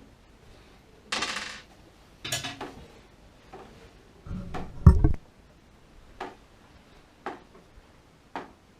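Small metal parts clinking and being handled, with a heavier knock about halfway through, then single sharp ticks roughly once a second.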